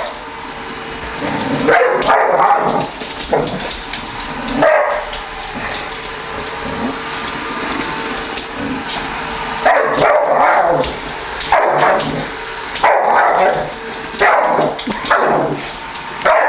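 Boxer dog barking in repeated bursts at a running Roomba robot vacuum, with the vacuum's faint steady hum underneath.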